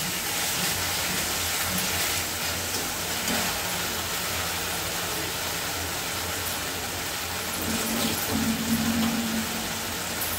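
Spiced curry masala with curd sizzling steadily in oil in a steel kadai.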